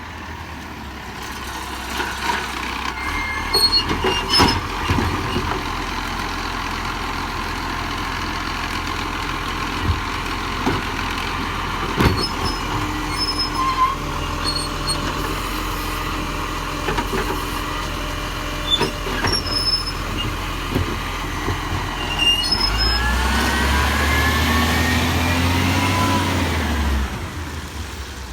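Garbage truck's diesel engine running, with scattered sharp clanks and knocks. Near the end it revs up for about four seconds with a rising whine, then drops away abruptly.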